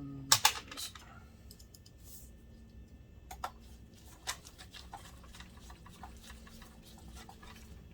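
Sharp clicks and light taps of small parts and screws being handled while a plastic projector case is put back together, with two loud clicks about half a second in, then scattered softer ticks.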